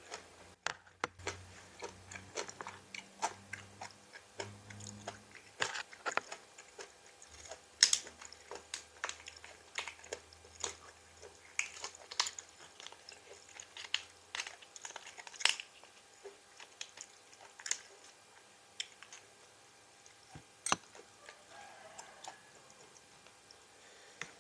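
Close-up eating: biting into and chewing crisp raw vegetables, with irregular sharp crunches several times a second and a few louder bites, thinning out toward the end.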